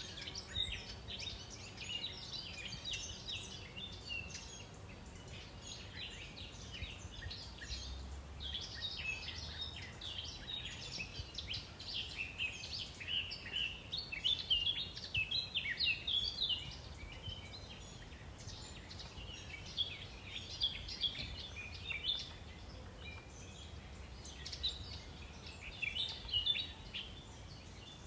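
Many small birds chirping, in quick overlapping calls throughout, over a faint low rumble.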